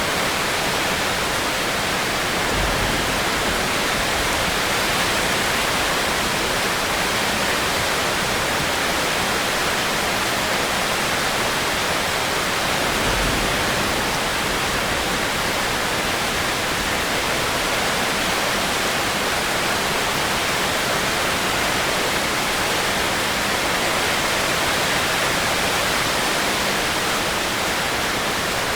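Rainstorm rain falling steadily, an even unbroken hiss. Two brief low thumps come about three and thirteen seconds in.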